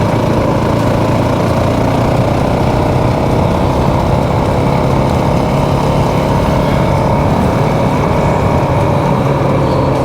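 Motorcycle engine running at a steady speed while the bike is ridden.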